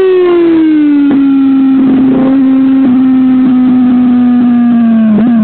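Honda CBR600RR four-cylinder engine through a Beowulf race can, revving hard on a dyno. Its pitch falls over about the first second, then holds steady at high revs for several seconds before a brief waver near the end. The engine was running lean because of a faulty Power Commander.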